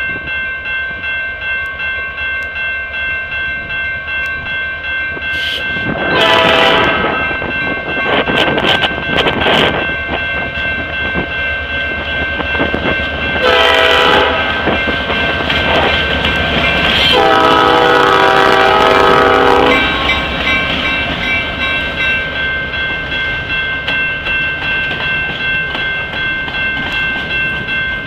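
Freight train locomotive sounding its air horn at a grade crossing: several blasts, the longest about two-thirds of the way through. Under it a crossing bell rings steadily, about twice a second, and the train's wheels run on the rails.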